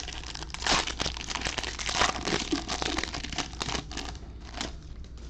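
Foil wrapper of a baseball card pack crinkling and tearing as it is opened: a run of crackles with louder bursts about one and two seconds in, quieting near the end.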